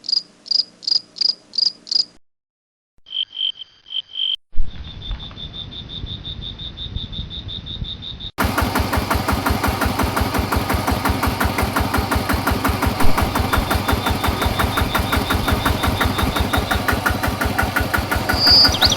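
High, evenly pulsed insect chirping, then a steady high whine with a buzz. After an abrupt cut, a small engine runs steadily with rapid, even firing pulses.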